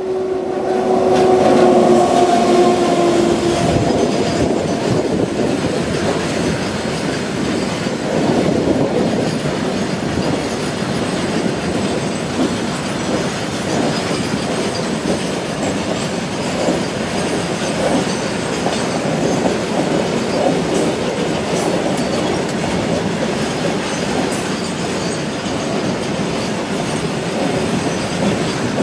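Indian Railways WAG-9 electric freight locomotive sounding its horn, a steady blast of about three seconds. The freight train then passes with a continuous rumble and clatter of wheels over the rail joints.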